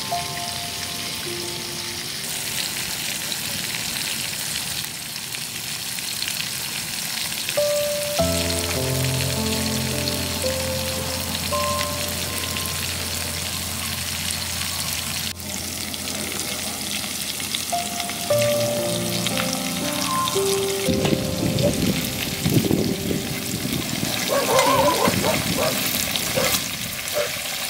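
Pork ribs sizzling and crackling as they fry in oil in a steel wok over a wood fire. Near the end a metal ladle stirs and turns the ribs in the oil, and the sizzling grows louder and rougher. Soft background music with held notes plays under it.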